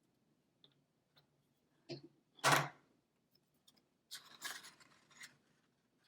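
Paper being handled while a small paper beak is glued onto a paper bird: a few faint clicks, a brief louder rustle about two and a half seconds in, then more paper rustling a second and a half later.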